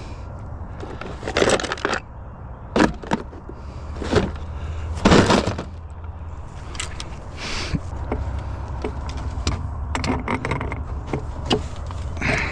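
Irregular knocks and clatter of scrap items being handled and set down, about half a dozen, the loudest about five seconds in, over a low steady rumble.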